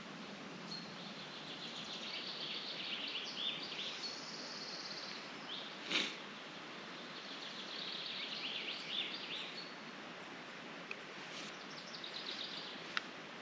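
Songbirds singing in repeated phrases of rapid high trills over a steady outdoor hiss, with one sharp click about six seconds in.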